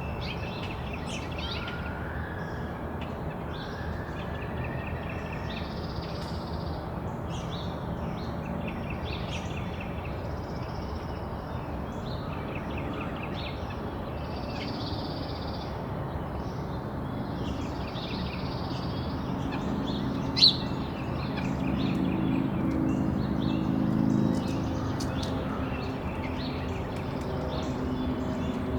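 Backyard songbirds chirping and trilling over and over, with a steady low background hum. The hum swells with a droning engine-like tone about two-thirds of the way through, and there is a single sharp click just before that.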